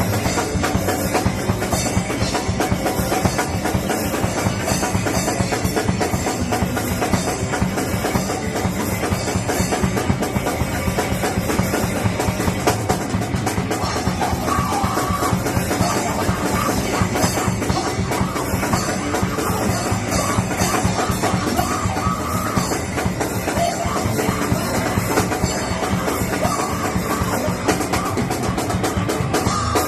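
A rock band playing live, loud and without a break: a drum kit hit fast and densely, with bass drum, under electric guitar.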